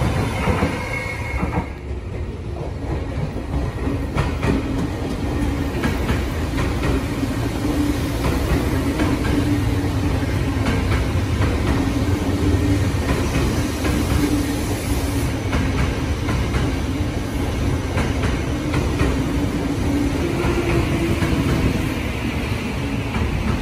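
Tokyo Metro Tozai Line commuter train rolling into the station platform and coming to a stand, with a brief high wheel or brake squeal at the start. Once it stops, a steady low hum from its onboard equipment carries on under the general rail noise.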